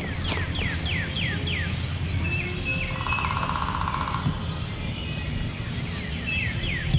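A songbird sings a quick run of descending chirps at the start and again near the end. A distant wild turkey gobble rattles about three seconds in, over a steady low rumble.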